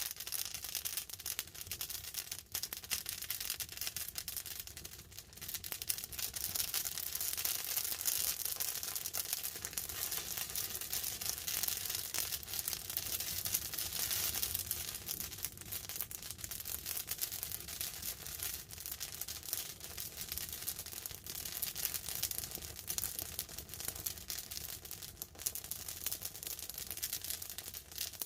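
Wood campfire crackling and popping continuously, with many sharp snaps over a steady hiss.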